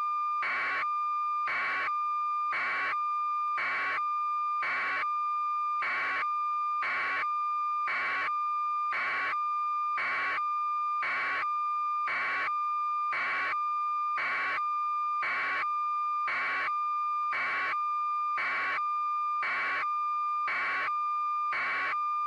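A steady, high electronic tone with a soft noisy pulse about once a second, at an unchanging level.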